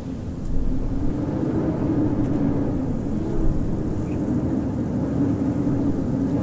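Wind blowing steadily with a low, wavering howl over a deep rumble.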